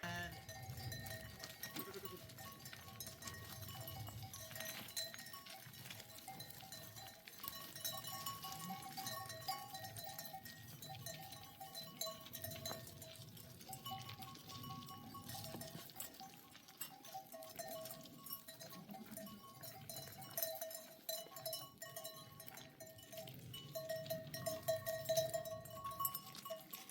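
Bells on a flock of sheep and goats ringing irregularly as the animals move and graze, each bell repeating the same few tones.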